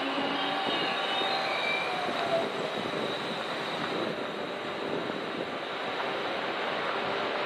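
Trenitalia regional passenger train at a station platform: a steady rumbling hiss, with a few faint squeals in the first two seconds.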